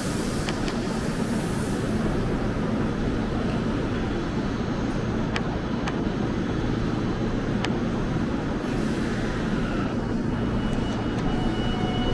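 Train rumbling steadily in a station, with a few sharp clicks in the middle; a faint steady whine joins about ten seconds in.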